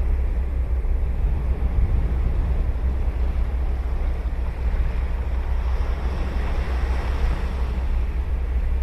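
Ocean surf breaking and washing on the beach, one wave's wash swelling about six to seven seconds in, over a steady low wind rumble on the microphone.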